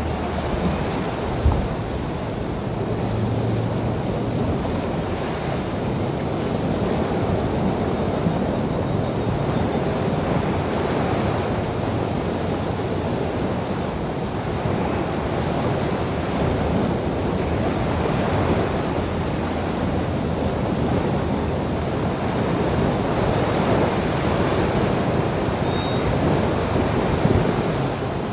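Sea waves breaking and washing onto a shore in a continuous surf, swelling and easing slowly, with some wind rumble on the microphone. A brief thump about a second and a half in.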